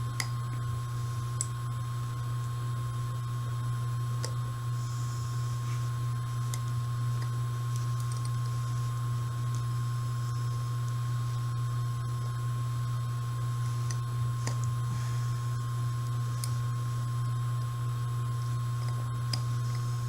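A steady high-pitched whine from a washing machine running nearby, over a steady low hum. Small light clicks come now and then as the pistol's small parts are handled.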